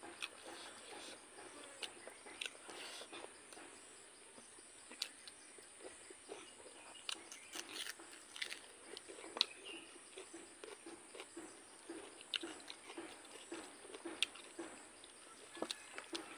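Close-up eating sounds: chewing of a hand-fed mouthful of rice and pork blood sausage, with wet mouth clicks and smacks, and fingers working rice on a steel plate. A steady high insect drone runs underneath.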